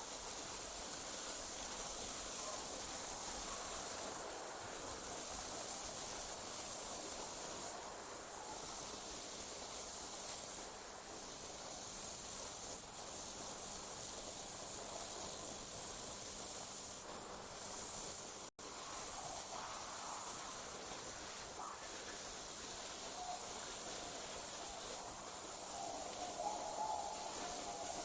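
Night insects trilling in a steady, high-pitched chorus that pauses briefly every few seconds. It cuts out for an instant about two-thirds of the way through.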